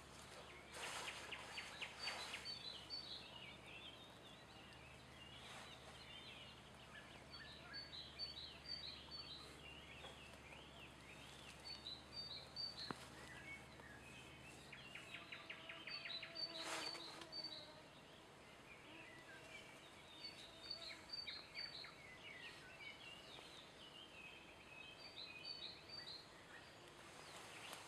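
Songbirds singing faintly, short twittering phrases of quick high notes repeating every few seconds.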